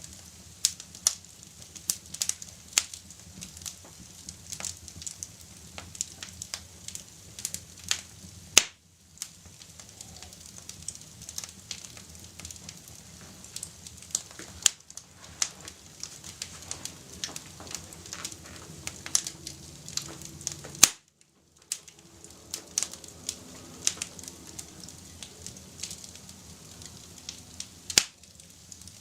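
Wood fire in a fireplace crackling, with frequent sharp pops and snaps over a soft steady hiss. Twice the sound cuts out briefly, each time just after a loud pop.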